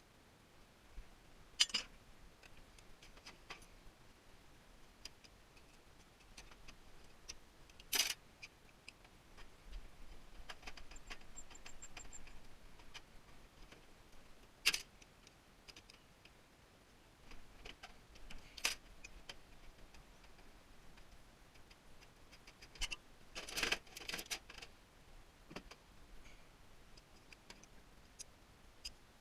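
Scattered sharp clicks and metallic clinks of hand-dismantling a tankless water heater: single clicks every few seconds, then a quick cluster of them near the end.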